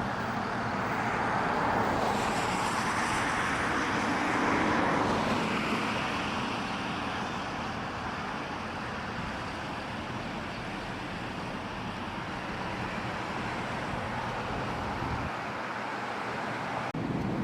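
Road traffic noise: a steady hiss of passing cars and tyres, swelling a couple of seconds in as a vehicle goes by, then settling.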